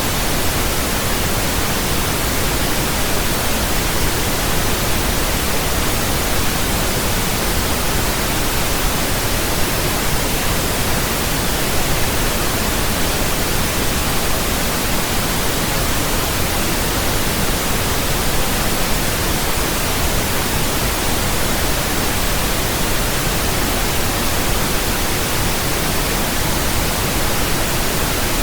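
Steady pink noise: an even, unchanging hiss with a soft bass rumble beneath it.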